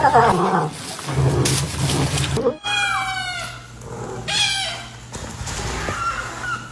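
A cat meowing twice: short pitched calls that fall in pitch, over a low steady hum.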